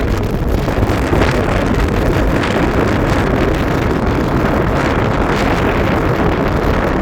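Loud, steady rush of wind buffeting the microphone, over a low rumble like that of a moving vehicle.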